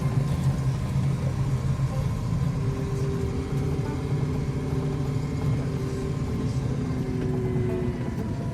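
Engine of a heavy farm vehicle running steadily under a constant hum, with no change in speed.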